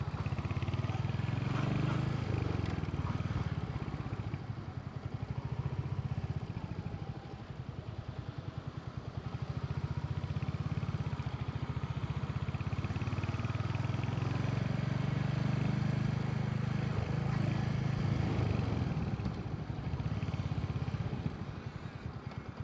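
Royal Enfield motorcycle engine and exhaust running at low city speed, a steady low pulsing note. It eases off and quietens about seven seconds in and again near the end, then picks back up.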